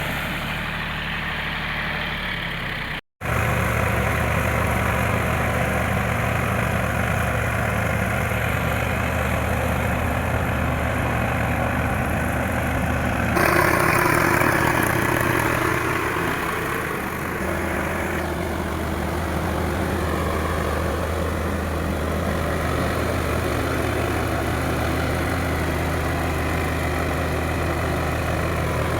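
Diesel tractor engine running steadily at low revs. There is a brief break about three seconds in, and the sound is louder for a few seconds around the middle.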